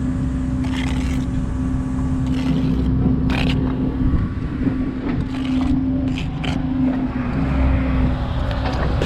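A brick trowel scraping and knocking on mortar and brick several times, over a steady engine hum and low wind rumble.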